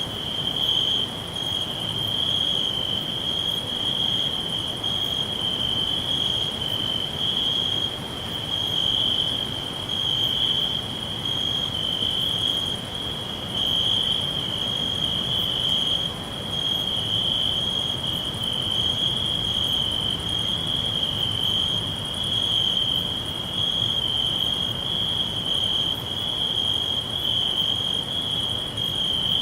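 Crickets chirring continuously: a steady, high-pitched trill that swells and eases slightly every second or two, with a faint rumble of background noise beneath.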